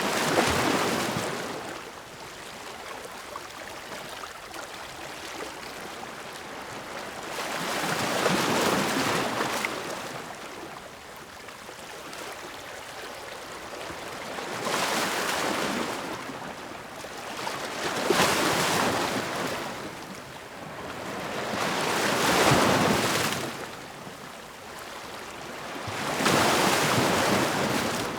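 Ocean waves breaking on a shore, each breaker rising to a loud wash and fading back into a quieter hiss, about six surges spaced a few seconds apart.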